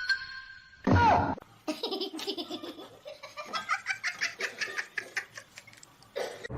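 A person laughing in a long run of quick, rapid pulses. Just before it, about a second in, comes a short, loud cry that falls in pitch.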